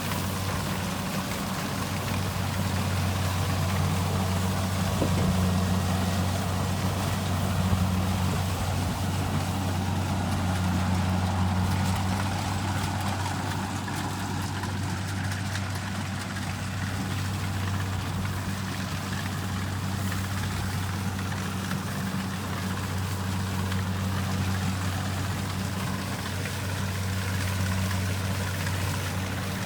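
Kubota rice combine harvester's diesel engine running at a steady speed, a constant low drone with a mechanical clatter over it.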